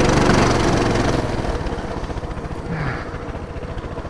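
A pull-start minibike's small single-cylinder engine running under throttle. After about a second and a half it eases off to a lower, steady run.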